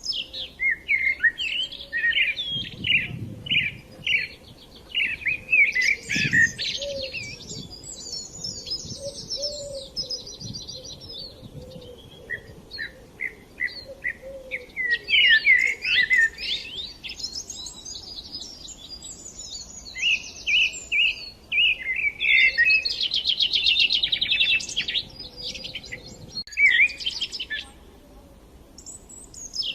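Small songbirds chirping and singing, in bursts of sharp chirps and rapid high trills that pause briefly and start again.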